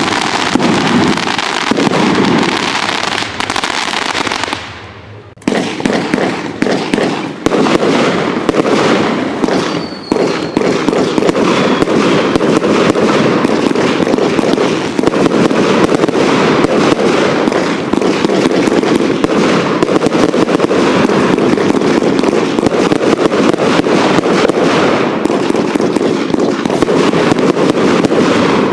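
Fireworks barrage: a dense, rapid string of bangs and crackle that goes on almost without pause, broken by a brief quiet gap about five seconds in.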